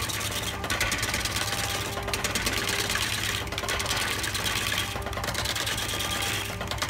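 Wood lathe spinning a large wooden blank while a hand-held gouge cuts into it: a fast, rattling cutting chatter over the lathe's steady motor hum. The chatter eases off briefly about every second and a half.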